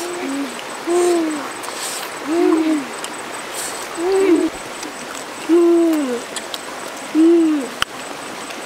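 A bird hooting repeatedly: about six low, arched hoots, each rising then falling in pitch, spaced roughly a second and a half apart. There is a single sharp click near the end.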